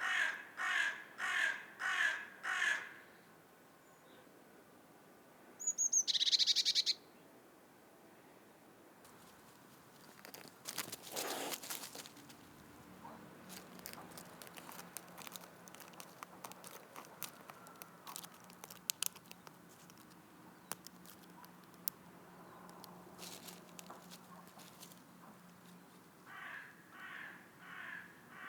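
A crow cawing, a run of about six caws at the start and another run beginning near the end. In between come a short high sound, a burst of scraping clicks and scattered faint ticks and rustling.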